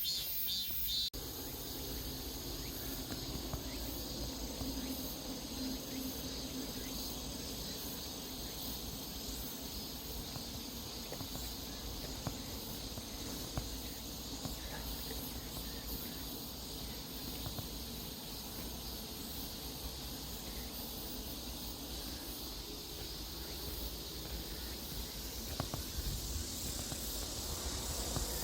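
A steady chorus of late-summer insects chirring together, high-pitched and continuous, over a low outdoor rumble. The sound changes abruptly about a second in.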